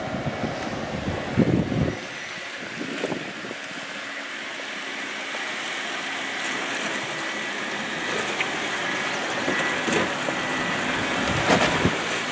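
Hybrid Jeep wading through a deep water-filled mud hole, with a steady wash of sloshing and splashing water. There are a few heavy thumps in the first two seconds.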